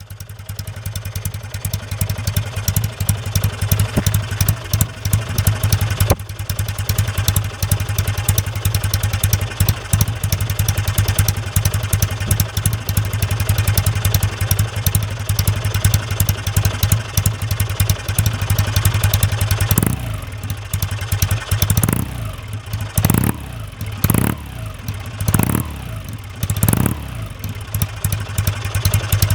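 Kawasaki W1SA's 650 cc parallel-twin engine idling steadily through its exhaust. About twenty seconds in, the throttle is blipped about six times in quick succession, and each rev rises and falls back to idle.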